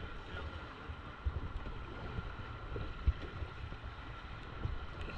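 Wind buffeting the microphone out on open water, in uneven low rumbling gusts, with a faint steady high whine underneath and a single knock about three seconds in.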